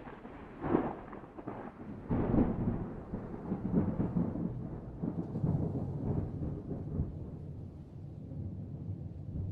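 Thunder: a sharp crack about a second in, then a long rolling rumble from about two seconds in that slowly fades.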